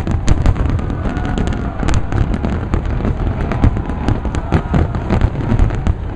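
Fireworks finale: a dense, continuous barrage of overlapping aerial shell bursts, many bangs a second over a constant low rumble.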